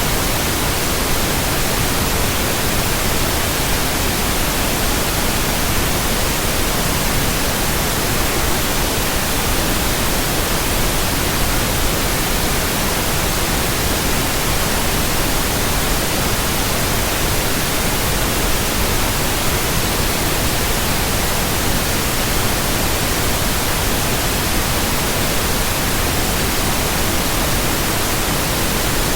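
Steady synthetic white noise: an even, loud hiss spread evenly across all pitches, with no changes or events.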